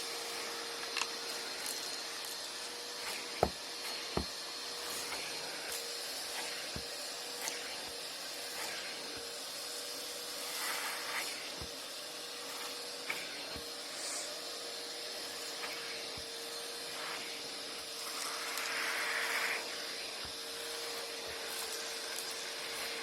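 Shop vac running steadily with a faint constant whine, sucking up debris: scattered sharp clicks and knocks as bits strike the hose and nozzle, the two loudest a few seconds in.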